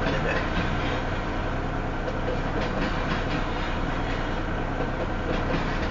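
Double-stack freight train rolling slowly by at about 17 mph while gathering speed: a steady rumble of steel wheels on rail with a low hum underneath and faint irregular clicks.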